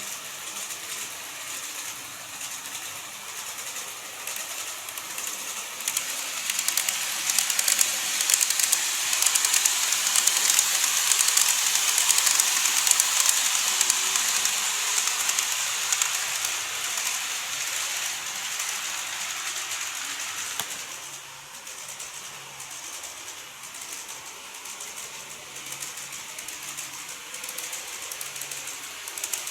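Model train running on its track: a dense clicking from the wheels and motor, high-pitched rather than deep. It grows louder from about six seconds in, as the train comes close, and drops off suddenly about two-thirds of the way through.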